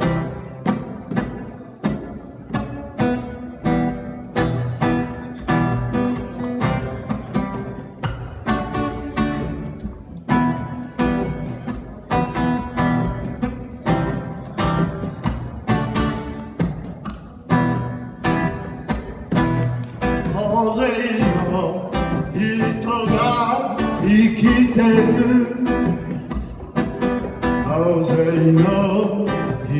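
Live acoustic guitar strummed in a steady rhythm of about two strokes a second, with a singing voice joining over it about twenty seconds in.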